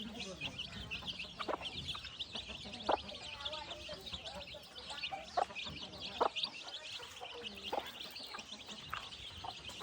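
A brood of chicks peeping continuously in rapid high chirps, with a few short, louder clucks scattered among them.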